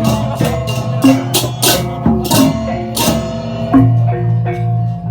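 Balinese gamelan music: struck metal keys ringing in a quick rhythm, with sharp cymbal-like clashes over a steady low tone.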